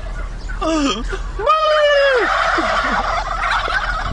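A man imitating a turkey, giving loud gobbling calls that swoop in pitch. The longest call, with a quick warble, starts about a second and a half in.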